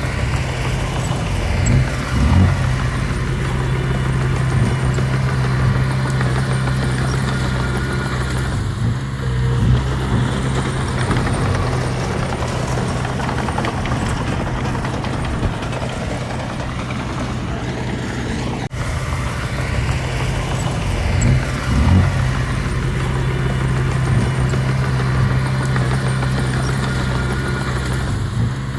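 Diesel engine of heavy earthmoving machinery running steadily under load, with a few brief rises in revs.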